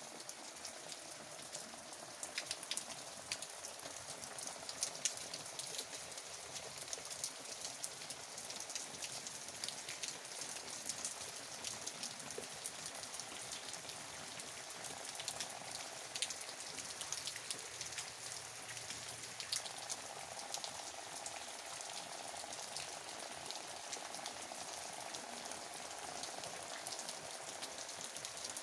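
Steady rain falling, with many separate drops striking a surface in sharp ticks over an even hiss.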